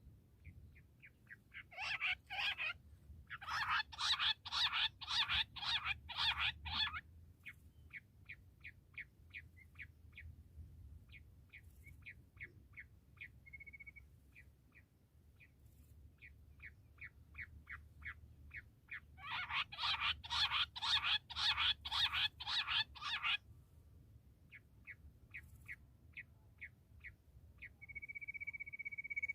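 Bush quail calling: long trains of short, evenly repeated notes, rising twice into loud spells of fast notes, once about two seconds in and again about twenty seconds in. A steady high tone comes in near the end.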